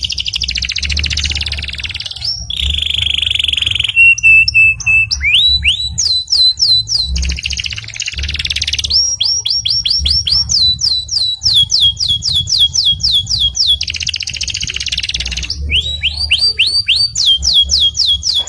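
Domestic canary singing: fast buzzing trills alternating with runs of repeated downward-sweeping notes, about six or seven a second, and a short held whistle about four seconds in.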